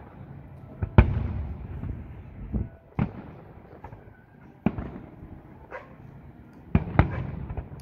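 Aerial firework shells bursting: a string of about seven sharp booms, each trailed by a low rumbling echo, the loudest about a second in and two in quick succession near the end.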